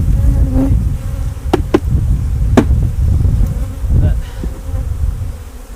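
Honey bees buzzing in numbers around open hive boxes, with several sharp knocks as the wooden hive boxes are handled and set in place.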